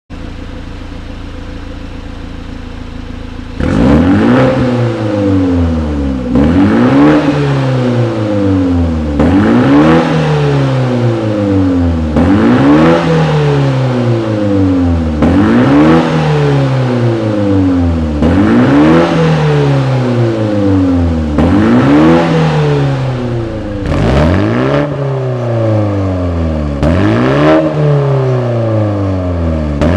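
BMW G20 320i's turbocharged four-cylinder engine idling, then revved sharply about nine times, each rev falling back toward idle, heard through an exhaust with a tuned mid-pipe and end section and a cut-open stock muffler, tuned for a louder exhaust note.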